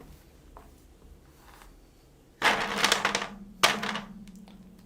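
Two short rustling noises, the second beginning with a sharp click, from hands handling and combing hair while sectioning it for a perm, over a faint steady hum.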